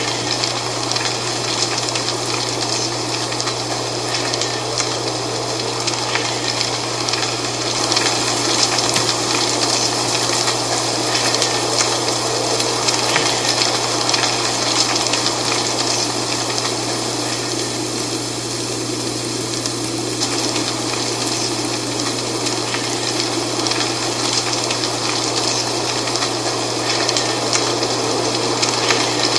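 Dry fall leaves rustling steadily in the wind, a dense crackling hiss that swells a little about eight seconds in.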